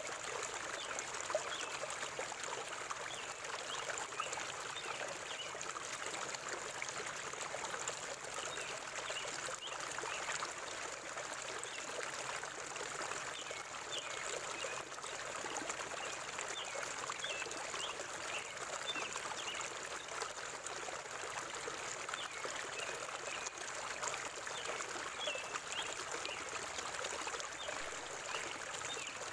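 A forest river flowing and trickling steadily, with scattered short, high bird chirps over the water.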